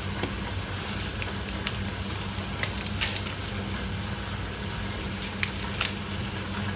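Chicken wings frying in hot oil: a steady sizzle with scattered sharp pops and crackles.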